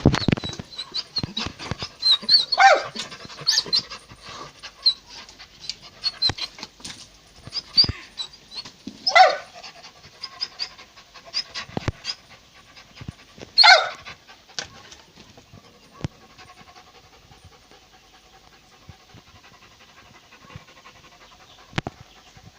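A household pet making quick, irregular breathy sounds and short calls, three of them louder, about 3, 9 and 14 seconds in. In the last several seconds it quiets to a faint steady hum.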